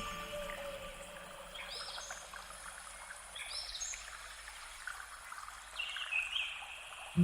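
Birds chirping: a few short rising chirps over a faint, steady watery hiss.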